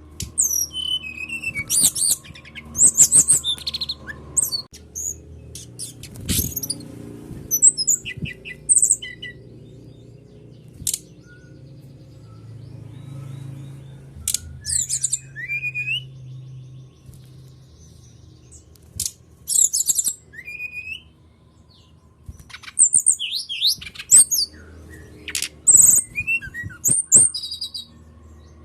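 Sikatan rimba dada coklat (brown-chested jungle flycatcher) singing: bursts of quick high chirps, trills and sliding whistles separated by short pauses, over a faint low hum.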